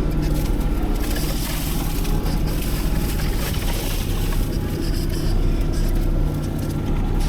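Engine of heavy land-clearing machinery running steadily and loudly, a low hum with a harsh, noisy edge.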